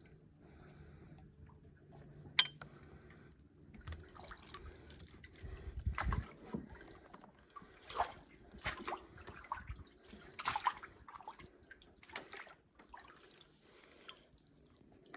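Water dripping and splashing in short, irregular bursts, a few louder splashes among fainter drips.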